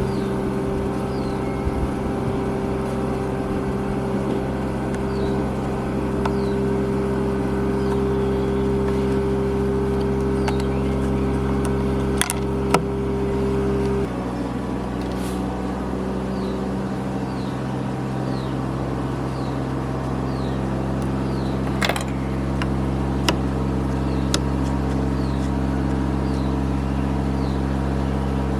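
A machine runs with a steady, layered hum, and the hum changes suddenly about halfway through. A few sharp clicks come in the second half.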